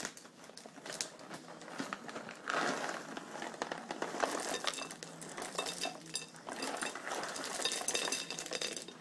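Irregular clinks, ticks and rattles of Goldfish crackers being tipped onto a waffle on a dish, with some rustling.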